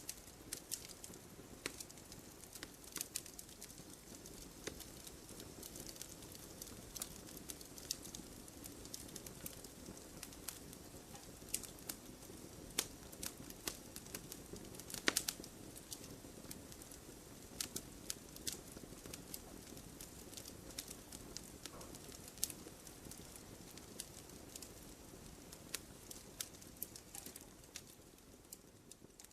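Wood fire burning in a fireplace: logs crackling with many small sharp pops over a steady low hiss of flames, one louder pop about halfway through.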